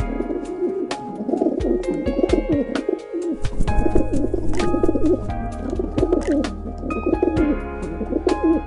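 Pigeons cooing repeatedly in low, wavering calls.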